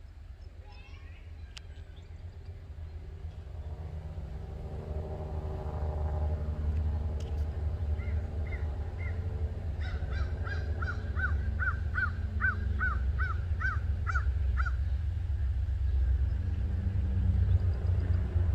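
Approaching Norfolk Southern freight train's diesel locomotives: a low rumble that grows steadily louder. Around the middle a bird calls a quick run of about a dozen short notes.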